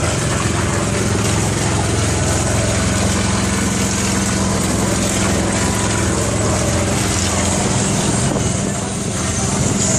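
Small boat's engine running steadily, a low even hum that dips briefly near the end.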